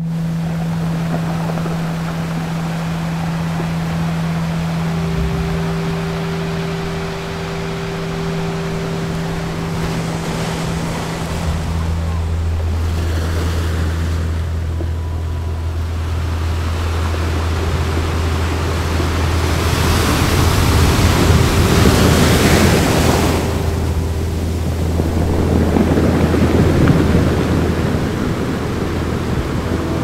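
Ocean surf washing onto a sandy beach. The waves swell and break louder about twenty seconds in and again a few seconds later.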